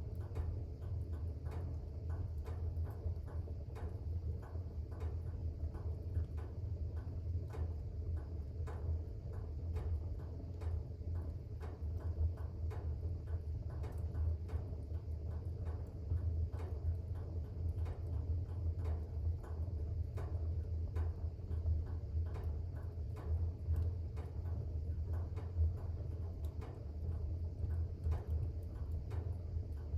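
Fire burning in a fireplace, crackling with irregular small sharp pops several times a second over a steady low rumble.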